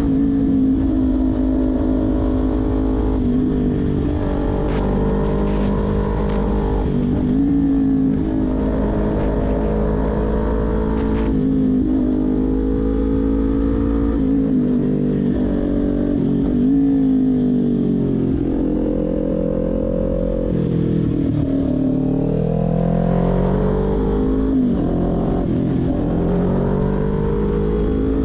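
Kawasaki Ninja 400's 399 cc parallel-twin engine revving up and down through the corners, its pitch rising on the throttle and dropping sharply at gear changes and on closing the throttle.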